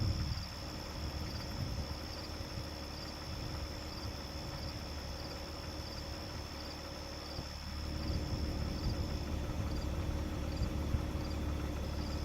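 Night insects trilling steadily, one high continuous note with soft regular pulses, over a low steady rumble.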